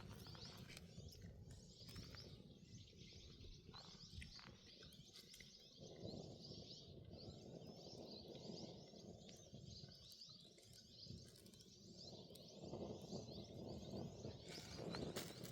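Faint outdoor ambience: many small birds chirping repeatedly over a low background rumble.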